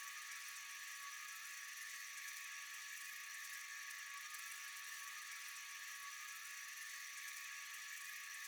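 Steady chorus of night insects, a continuous high-pitched shrilling with no breaks or changes.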